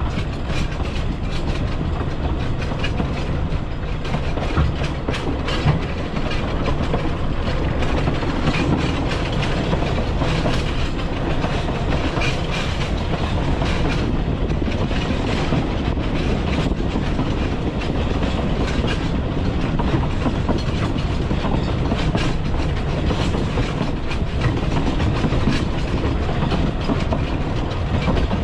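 Narrow-gauge Talyllyn Railway train running along the line, heard from aboard: a steady rumble with the wheels clicking over the rail joints.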